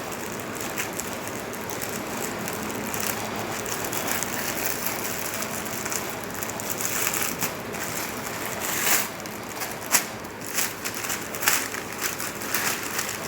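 Gift packaging rustling and crinkling as a parcel is unwrapped by hand: a steady rustle at first, then sharper crackles and clicks in the second half.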